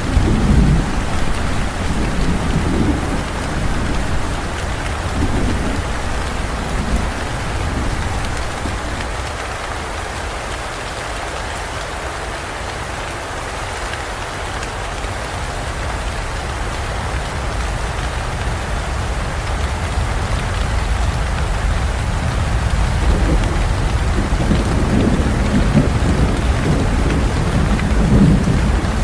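Steady heavy rain, with deep thunder rumbling at the start, easing in the middle, and building again over the last few seconds.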